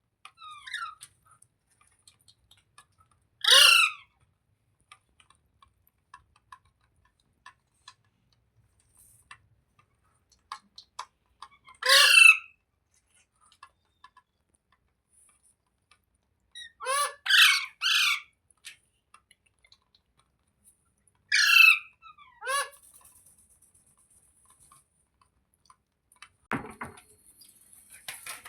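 Rose-ringed (ringneck) parakeet giving loud, harsh squawks every few seconds, with three in quick succession about two-thirds of the way through and faint clicks between calls. A single low thump comes near the end.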